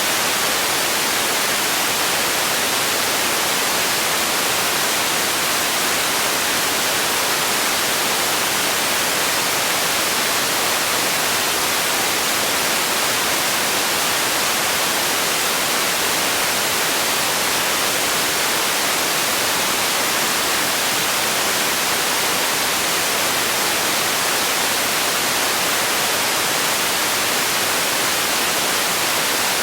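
Steady, unchanging white noise: an even hiss, brightest in the treble and thin in the bass.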